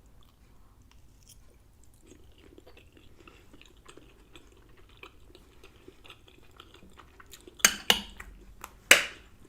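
A person chewing a bite of creamy lasagna roll with soft, wet mouth sounds. Near the end come three sharp clicks, two close together and one about a second later.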